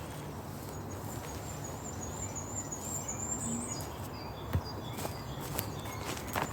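Outdoor ambience: a thin, high, wavering bird call runs through the first half over a steady background noise, and a few sharp clicks come in the second half.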